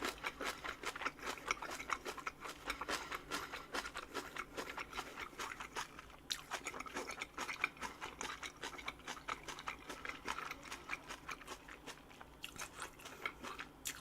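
Close-miked chewing of a rolled-up wrap of boiled pork and gimjang kimchi: a dense run of quick crunching bites, easing off briefly near the end.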